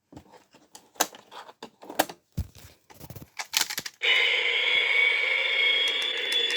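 Shake N Go toy race cars: scattered plastic clicks and clacks as they are handled and shaken, then about four seconds in a steady, high whir starts abruptly as a car runs.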